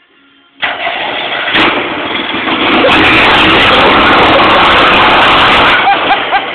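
Boat motor engine noise, very loud, starting suddenly about half a second in, holding steady and dying away just before the end.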